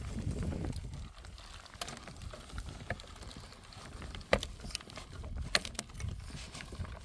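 The high tunnel greenhouse's plastic side being rolled up, with scattered clicks and knocks from the roll-up mechanism over a low rumble of wind and plastic.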